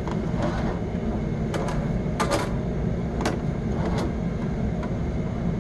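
Sewer inspection camera's push cable and reel being handled as the camera is fed further down the line: irregular sharp clicks and knocks, about seven, over a steady low rumble.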